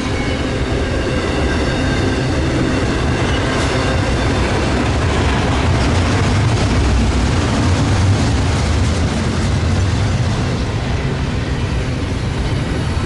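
A train rolling by on the track: a steady rumble of rail cars that swells slightly around the middle.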